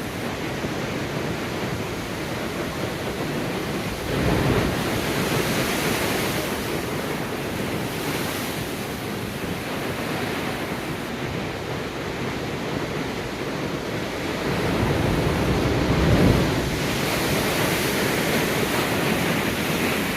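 Big ocean waves breaking and washing over a rock pool: a continuous surf wash with two louder surges, about four seconds in and again near sixteen seconds.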